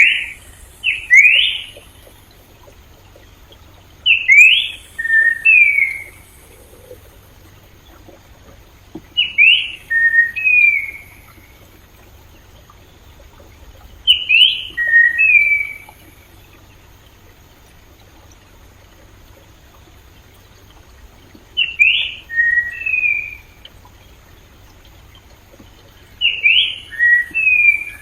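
A songbird repeating the same short phrase of quick rising whistled notes, six times, about every four to five seconds. A faint steady stream runs underneath.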